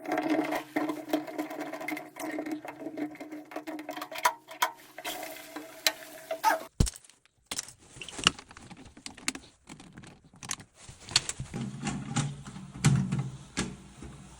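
Plastic cistern parts clicking and knocking as they are handled and fitted, over a steady mechanical hum that stops suddenly about halfway through. A low rushing rumble of water comes in near the end.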